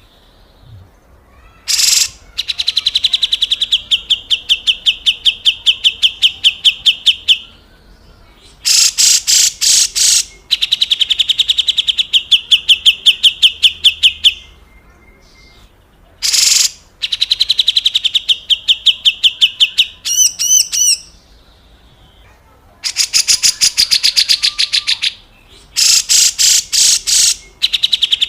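Grey-cheeked bulbul (cucak jenggot) giving its harsh, rasping chatter ('besetan kasar'): fast strings of grating notes in bouts of several seconds, separated by short pauses.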